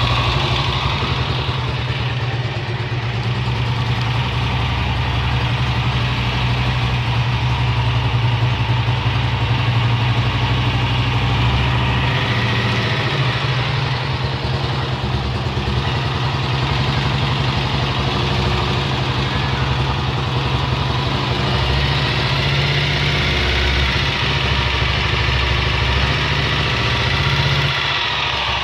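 Honda XLR 125 ES motorcycle's single-cylinder engine idling steadily, an engine whose owner hears a strange noise in it.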